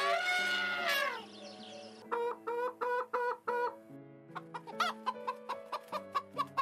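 Chickens clucking in quick runs of short repeated calls, after one loud call that rises and falls in pitch during the first second, over quiet background music.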